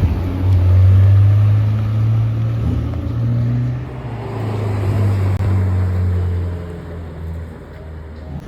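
A car engine running with a deep, steady note that grows fainter over the last few seconds, as if the car is moving away.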